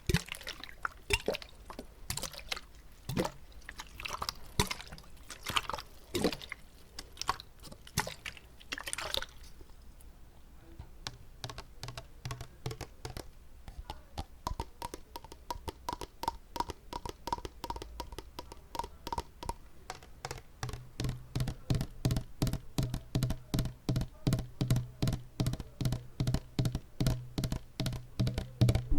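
Wet mouth sounds with water held in the mouth: irregular clicks and smacks, then after a quieter stretch a fast, even run of wet clicks, about five a second, for the last third.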